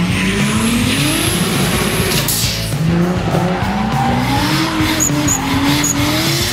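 Dubbed-in car engine sound effect revving up in rising sweeps, with a tyre-screech burst about two seconds in, over background music.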